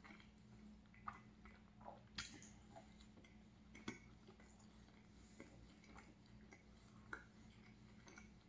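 Faint chewing of a soft, mixed-berry-jam-filled mini donut with the mouth closed, with a few small wet mouth clicks.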